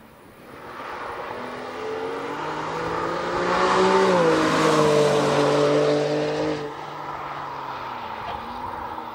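BMW M4 prototype's twin-turbo straight-six at speed, swelling as the car approaches. The engine note climbs in pitch to its loudest about four seconds in, then dips as the car passes. Then it falls away suddenly to a quieter, more distant engine note.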